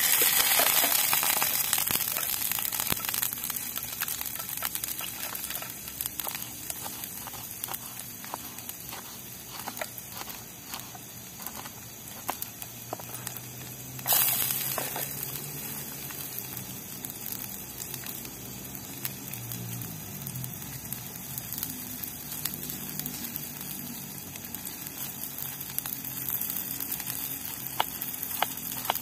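Chopped garlic and chilli sizzling in hot oil in a small pan on a portable butane gas stove. About halfway through, a sudden loud burst of sizzle comes as more chopped ingredients are tipped in from a wooden board. Light knife taps on the board come and go.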